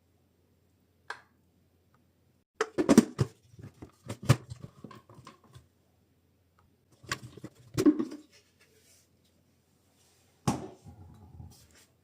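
Kitchen handling sounds: a few separate spells of knocks, taps and scraping, as of utensils, containers or fruit being handled on a work surface, with silence between them.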